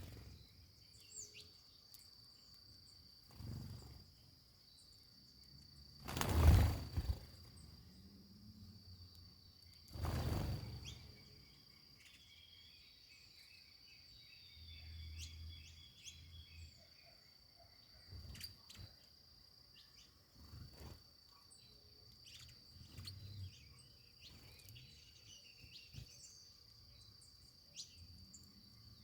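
Outdoor nature ambience: a steady high insect trill with short bird chirps scattered through. Loud rushing bursts interrupt it three times, the loudest about six seconds in.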